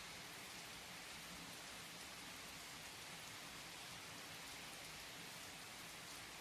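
Steady rain: an even hiss of rainfall with faint, scattered drop patter.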